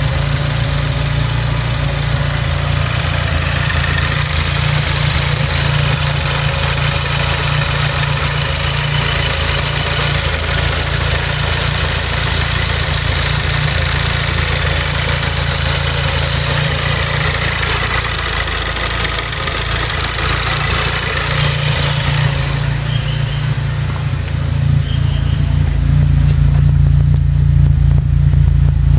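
Freshly rebuilt 2.2-litre turbocharged engine with a GT2871R ball-bearing turbo, running steadily on its first start-up after the build. Past the middle a hissing layer above the engine note fades away, and near the end the low engine note gets louder.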